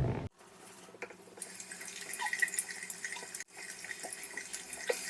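Tap water running into a bathroom sink, with splashing as a face mask is washed off the face by hand. The water sound breaks off sharply twice.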